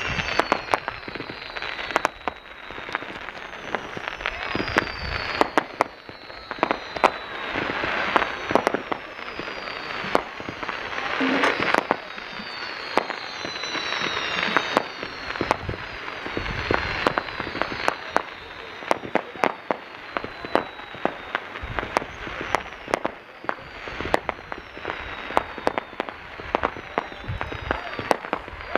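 Fireworks display going off continuously: a rapid stream of sharp bangs and crackling, with many whistles falling in pitch.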